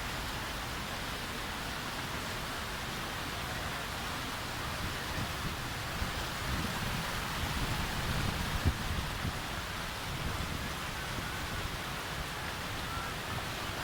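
Heavy rain falling steadily, an even hiss. A low rumble runs through the middle stretch, with one sharp knock about nine seconds in.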